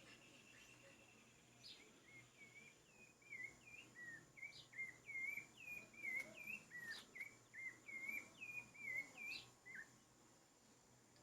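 Rufous-bellied thrush (sabiá-laranjeira) singing a long string of short, clear whistled notes, two or three a second, starting about two seconds in and stopping shortly before the end.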